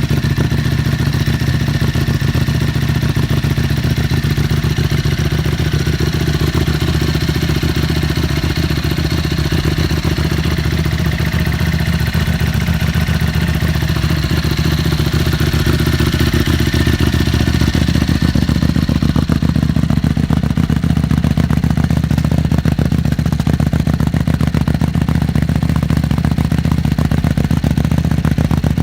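2007 Aprilia SXV 5.5's V-twin engine idling steadily through a titanium Arrow/Silmoto exhaust.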